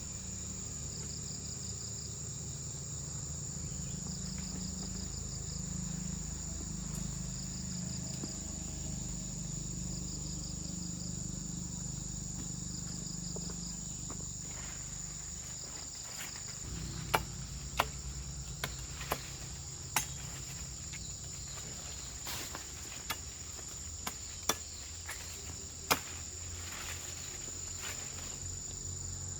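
Insects shrilling: a steady high-pitched drone with short chirping trills repeating every couple of seconds, over a low hum. In the second half, scattered sharp knocks, about nine, come at uneven intervals.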